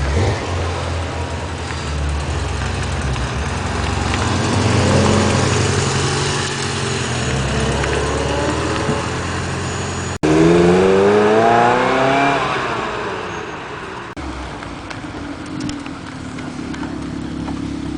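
Exotic sports car engines idling steadily, then after an abrupt cut a car accelerates hard with its engine note climbing quickly, then fading as it pulls away.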